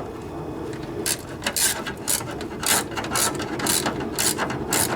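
Hand ratchet wrench clicking as it tightens small screws, its pawl ratcheting on each back-swing, about two strokes a second.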